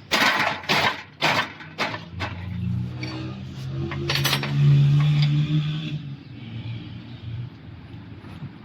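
Small metal parts and tools clinking and knocking on a workbench, about six sharp clinks in the first half, with a low hum swelling in the middle for a few seconds.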